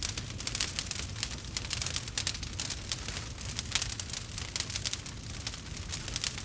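Campfire of burning wood crackling and popping in quick irregular snaps, over a steady low rumble.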